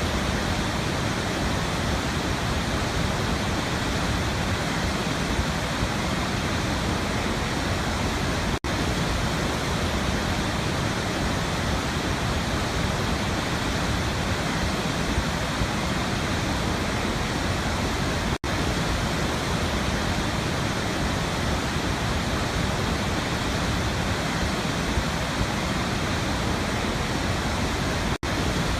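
Waterfall rushing in a steady, even roar of falling water, broken by three very short dropouts about ten seconds apart.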